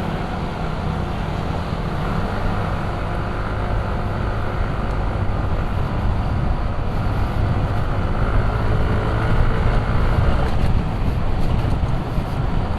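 Motor scooter engine running on the move, with a steady rush of wind on the microphone.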